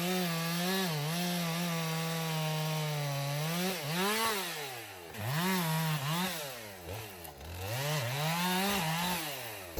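Chainsaw engine running at high revs, held steady for about three seconds. Then the throttle is let off and opened again several times, so the pitch repeatedly drops and climbs back up.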